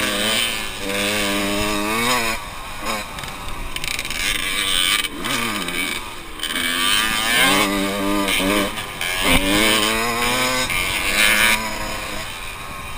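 Yamaha dirt bike engine revving hard under way, its pitch climbing and dropping again several times as the rider works the throttle.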